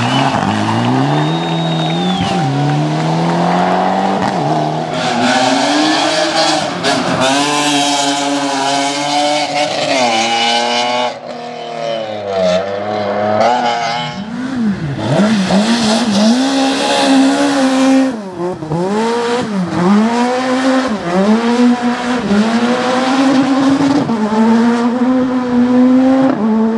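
Rally car engines driven hard, revving up through the gears, the pitch climbing and dropping with each shift and lift, over a hiss of tyre noise; the sound changes abruptly a couple of times as one car gives way to another.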